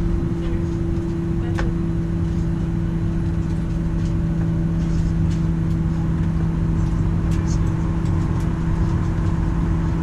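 Steady cabin hum inside a parked Boeing 737-900: the air-conditioning and ventilation system running, a constant low drone with a steady tone, with a few faint clicks.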